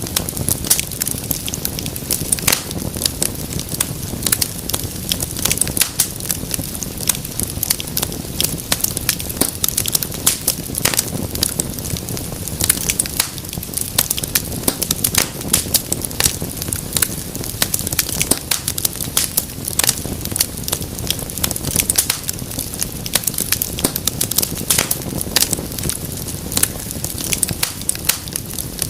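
Wood fire crackling steadily, with many irregular sharp pops and snaps over a low rumble of flame.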